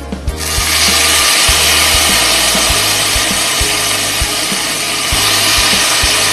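Pieces of pork dropped into hot oil and garlic in a pot, sizzling hard from about a third of a second in and holding steady as they fry.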